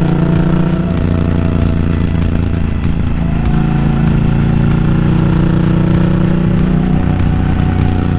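Motorcycle engine running on the move, most likely the Honda Africa Twin's parallel twin. Its note falls about a second in, climbs again a few seconds later, and dips and rises once more near the end.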